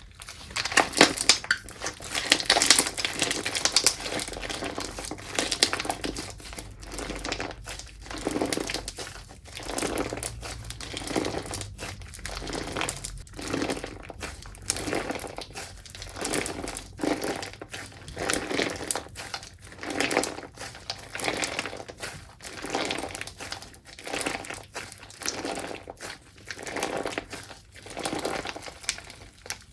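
Slime being kneaded and pressed by hand, a squeeze about once a second, densest and loudest in the first few seconds.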